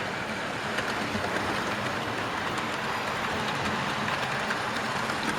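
Model train running along the layout's track: a steady rumble of wheels and motor, with faint ticks as it passes over the rail joints.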